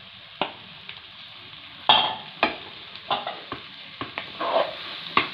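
Chopped raw mango sizzling in hot oil and spice masala in a pan, stirred with a wooden spatula. A steady sizzle runs under a series of sharp scrapes and knocks of the spatula against the pan, and these come more often in the second half.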